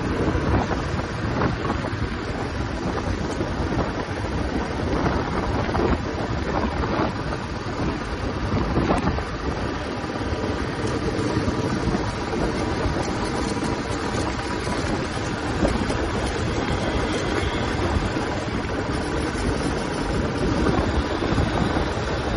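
Royal Enfield Classic 350's single-cylinder engine and exhaust running steadily under way, with wind noise on the microphone.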